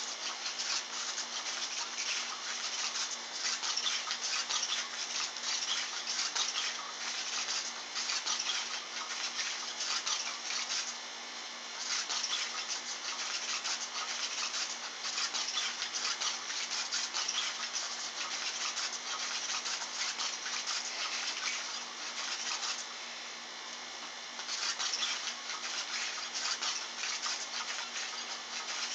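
Continuous rapid scratchy rubbing, made of many fine quick strokes, with two brief lulls, one about eleven seconds in and one about twenty-three seconds in.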